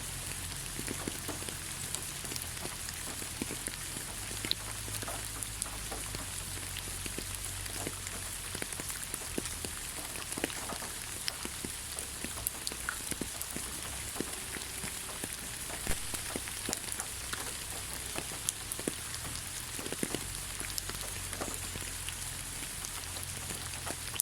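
Steady rain falling on the ground: an even hiss scattered with the ticks of single drops striking, over a low steady rumble.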